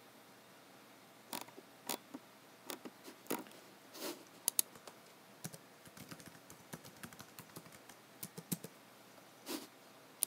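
Typing on a computer keyboard: irregular key clicks, spaced out at first, then a quicker run of light taps in the second half, with a few softer, heavier key knocks.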